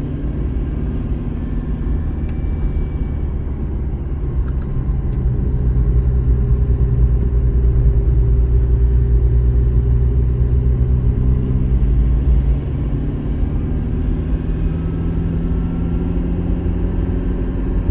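Car engine and road noise while driving uphill: a steady low drone with a few engine tones, a little louder in the middle and easing briefly about twelve seconds in.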